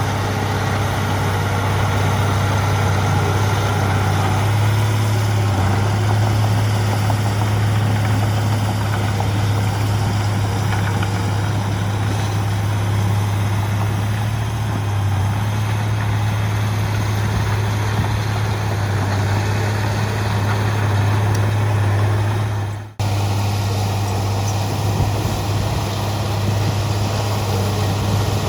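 Heavy diesel earthmoving engine running steadily, a strong low hum, with a sudden break about 23 seconds in.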